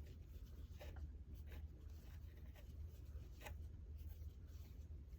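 Faint scratching and rubbing of a crochet hook pulling acrylic yarn through single crochet stitches: a few short, irregular strokes over a low steady hum.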